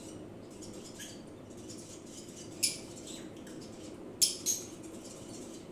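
Lovebird giving short, sharp chirps, three in all, over a faint steady background hum.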